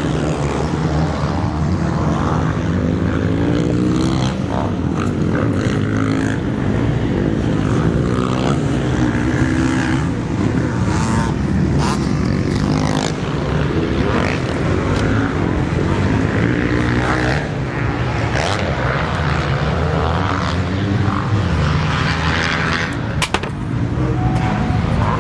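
Several motocross bikes racing on the track at once, their engines revving up and down and overlapping as they go round.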